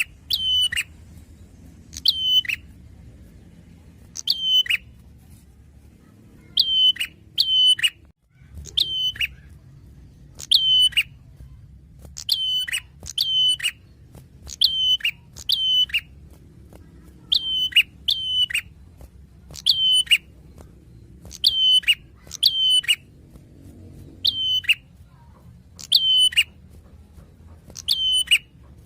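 Prenjak (prinia) calling: short, sharp chirps, each dropping quickly in pitch, given singly or in quick pairs about every one to two seconds.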